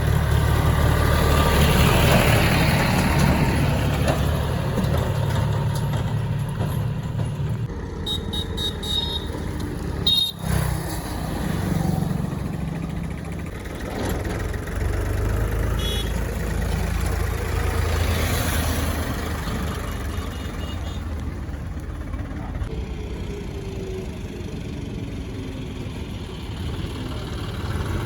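Diesel engine of a JCB backhoe loader running steadily while loading mud, with a sharp knock about ten seconds in.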